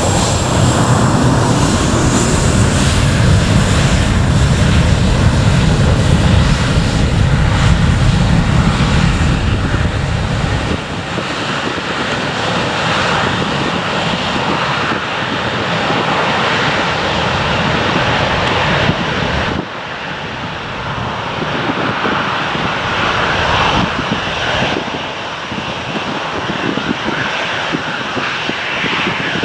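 Departing airliner's engines at takeoff power: a loud, deep rumble that drops away sharply about eleven seconds in, leaving a fading roar.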